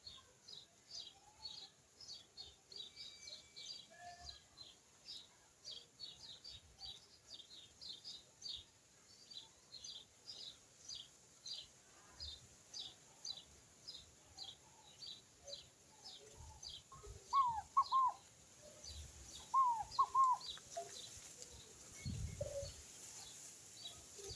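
Birds calling: a steady series of short, high chirps, about two or three a second, with two louder pairs of lower, curving call notes about two-thirds of the way through. A brief low rumble comes near the end.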